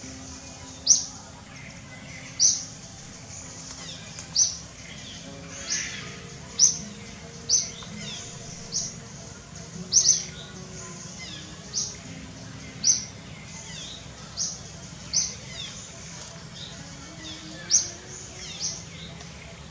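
A bird repeating a short, sharp, high chirp that drops quickly in pitch, over and over at about one a second.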